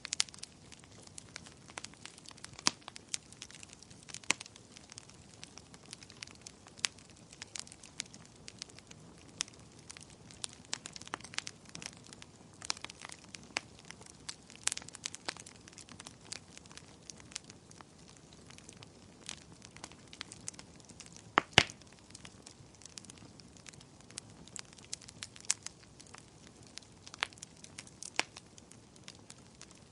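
Wood fire crackling in a fireplace: irregular pops and snaps over a soft hiss, with one sharper, louder pop about two-thirds of the way through.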